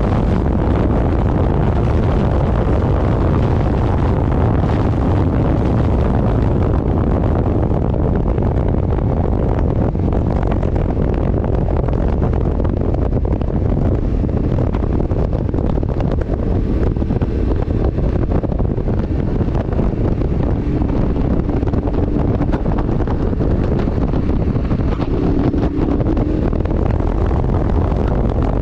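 Wind buffeting the microphone of a moving vehicle, a steady low rush over the vehicle's engine and road noise.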